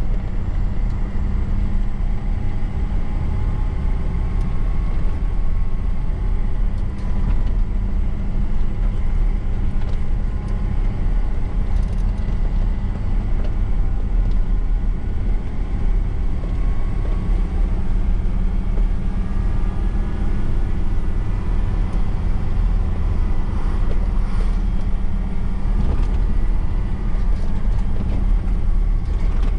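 Truck engine running steadily under way, with road and tyre noise; its note drifts gently up and down.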